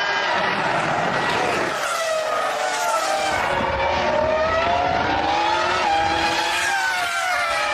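3.0-litre V10 Formula One engines at high revs. Several engine notes rise and fall and cross one another as the cars shift gears and brake.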